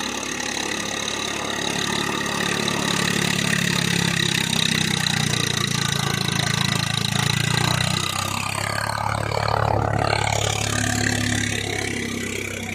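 Diesel tractor engine running, growing louder over several seconds, easing off about eight seconds in, then swelling once more before settling down near the end.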